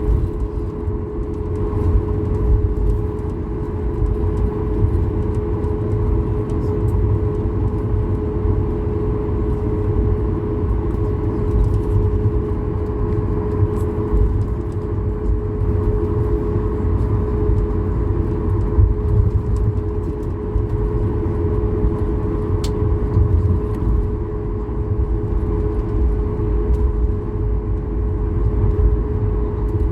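Steady cabin noise of a Boeing 737-8200 MAX: a dense low rumble with a constant droning tone from its CFM LEAP-1B engines and airflow, holding the same level throughout.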